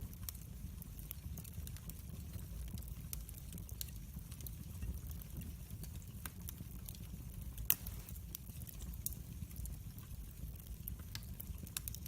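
Wood fire crackling in a fireplace: scattered sharp pops over a steady low rumble of the flames, with one louder pop about two-thirds of the way through.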